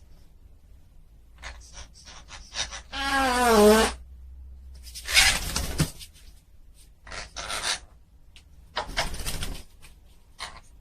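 Pet parrot vocalizing: a few short clicks, then about three seconds in a loud wavering call that falls in pitch, followed by three raspy, hissing bursts.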